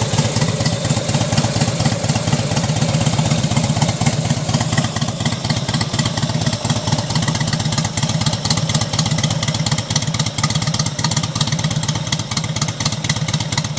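Harley-Davidson Road King's V-twin engine running steadily, an even run of firing pulses at a constant speed.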